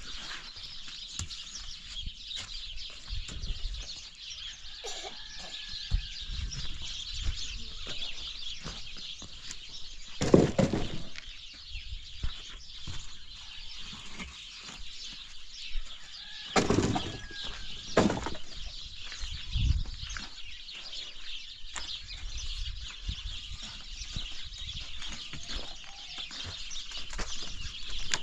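Birds, with wing flapping, over a steady high hiss; a few louder knocks or thumps come about ten seconds in and again around seventeen seconds.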